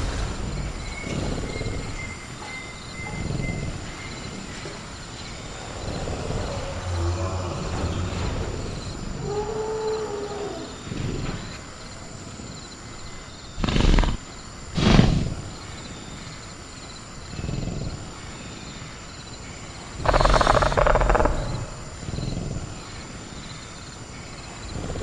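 Velociraptor sound effect growling and roaring, with two sharp knocks of the cage being rattled just past halfway and a louder burst of roaring near the end. A steady high cricket drone runs underneath.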